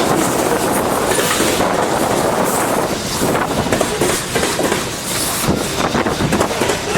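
Loaded freight train rolling past, its steel wheels clacking over the rail joints in a steady rumble.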